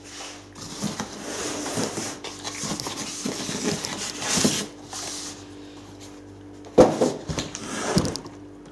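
Packaging rustling and scraping as a sewing machine is lifted out of its box, then two knocks near the end.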